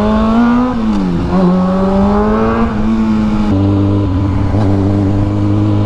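Honda Grom's single-cylinder engine accelerating: its pitch climbs, drops at a gear change about a second in, and climbs again. From about halfway through it holds a steady, lower pitch.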